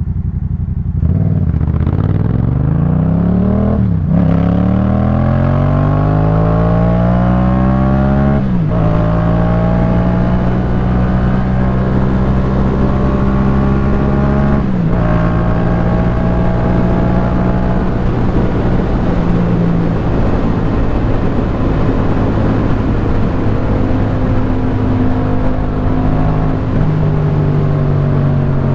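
2018 Yamaha MT-07's 689 cc parallel-twin engine through a Jeskap K4 full aftermarket exhaust, pulling hard through the gears with three upshifts, about 4, 8.5 and 15 seconds in. The engine note drops at each shift and rises again, then holds fairly steady at cruising speed with a rush of wind noise.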